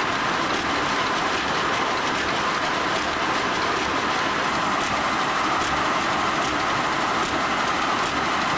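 Steam-powered sawmill machinery running steadily: an even mechanical noise with faint, regular ticks.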